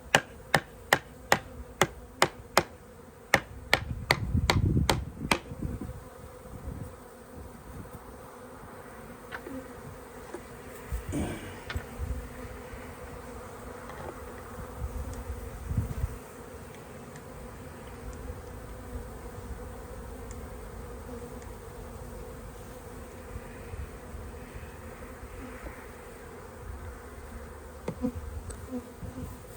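Honeybees buzzing around an open hive, a steady hum throughout. For the first five seconds it is broken by a quick run of sharp knocks, about three a second.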